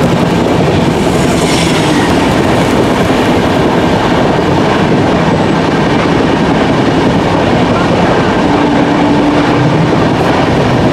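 Loud, steady running noise of a fast express train heard from its open door: wheels clattering on the rails and wind rushing past. An oncoming passenger train passes close by on the next track, with a short rush of hissing noise about a second and a half in.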